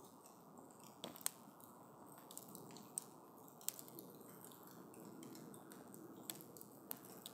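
Wood campfire crackling faintly: several sharp pops and snaps scattered through, the loudest a little over a second in, over a steady low hiss of the burning wood.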